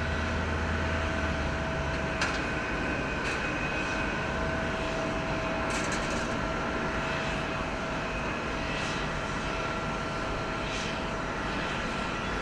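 Airliner jet engines running at a steady low power, a continuous whine over a rushing noise, with a few faint clicks.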